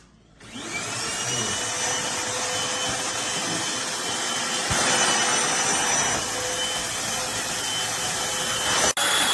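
Eureka NES215A Blaze stick vacuum switched on: its motor winds up to speed over about a second with a rising whine, then runs steadily, a high whine over rushing air. The sound breaks off briefly near the end.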